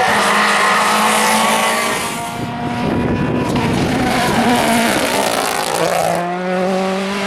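Rally car engine at high revs, its note held steady, then a rushing noisy stretch in the middle as the car goes by. A lower, steady engine note follows near the end.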